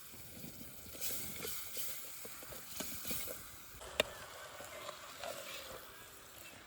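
Faint night-time forest ambience: an even hiss with a few soft ticks, and one sharp click about four seconds in.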